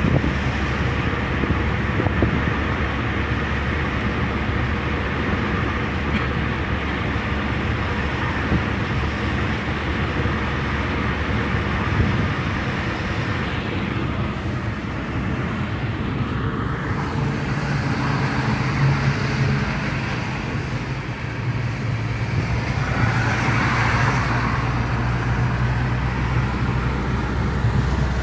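Car driving along the road: steady engine hum and tyre and road noise.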